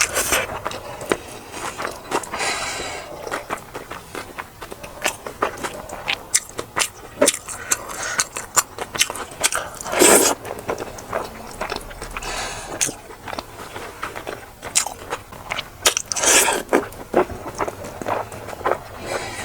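Close-up eating sounds: chewing and biting food, with frequent small crunches, clicks and scrapes.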